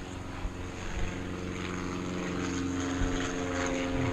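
A steady mechanical drone at a fixed pitch, slowly growing louder, with a few faint clicks.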